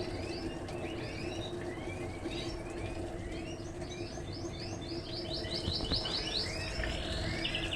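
Small birds chirping all through, with rapid trilled runs of notes about five seconds in and again near the end, over a steady low hum.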